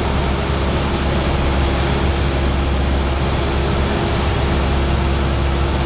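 Cessna 172R's four-cylinder Lycoming engine and propeller droning steadily in flight, heard from inside the cabin as a loud, even hum with a dense rush of noise over it.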